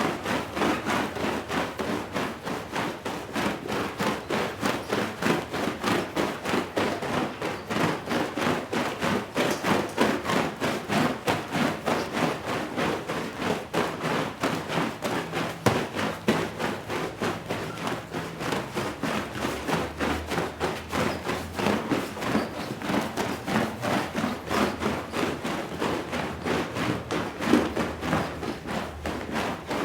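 Rapid, regular strokes of a cleaning tool working a wet shag rug, about three a second, each with a short thud.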